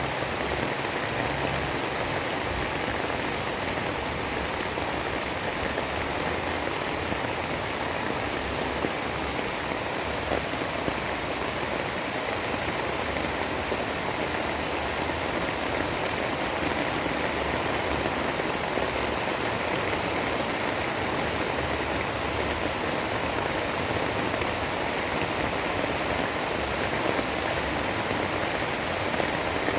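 Steady rain: an even, unbroken hiss with faint scattered drop ticks and no thunder.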